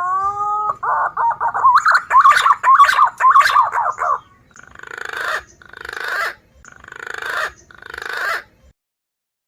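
Green pigeon (punai) song played as a bird-lure recording: a rising whistled note, a fast warbling run of whistles, then four hoarse, rasping notes that each swell in loudness before the sound stops.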